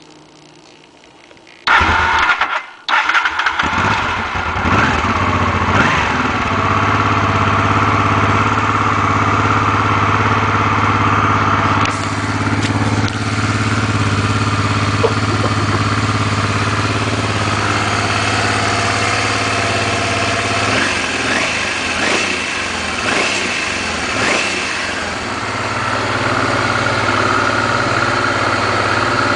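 Honda Transalp motorcycle engine started: it catches suddenly a couple of seconds in, dips briefly, then runs steadily at idle with small changes in speed.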